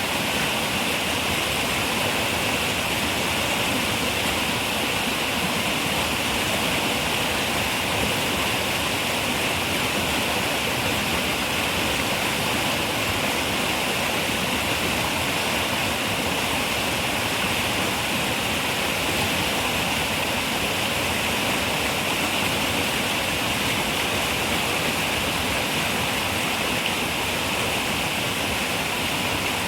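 Running river water, a steady, unbroken rush with no separate splashes.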